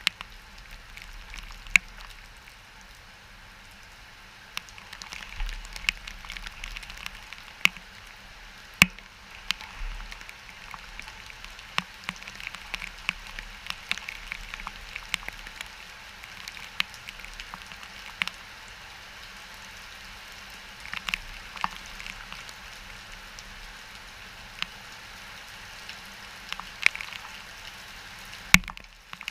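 Rain from a hurricane's outer rain band falling steadily, with irregular sharp drops and drips tapping on hard surfaces throughout.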